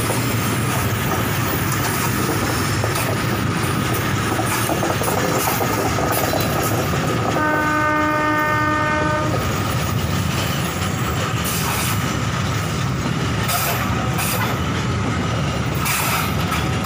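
Passenger train coaches rolling past close by, a steady loud rumble of steel wheels on the rails. About halfway through, a train horn sounds once for roughly a second and a half.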